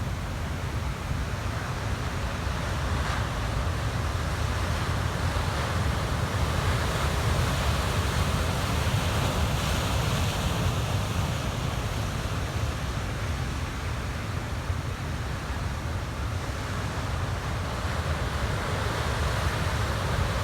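Pacific Ocean surf breaking and washing in a steady rumble that swells and eases slowly, with wind buffeting the microphone.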